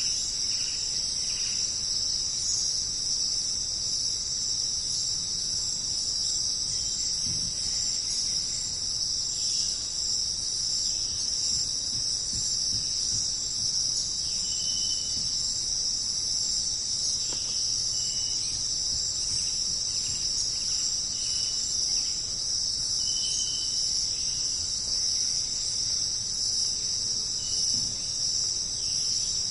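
Dense, steady chorus of jungle insects, a shrill unbroken drone, with short high chirps now and then in the second half.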